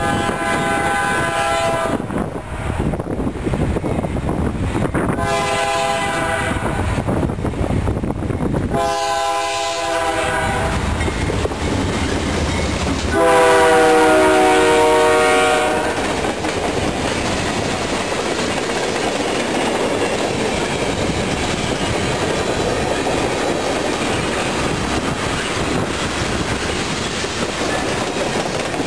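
A freight locomotive horn, on CN 2697, a GE Dash-9, sounds the grade-crossing signal: long, long, short, long. The last long blast is the loudest as the engine draws level. Then the train passes with a steady rumble and clatter of wheels on rail.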